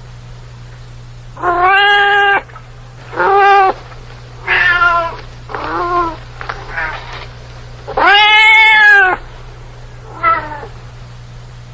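A domestic cat meowing again and again: about seven meows of varying length, the longest and loudest starting about eight seconds in. A steady low hum runs underneath.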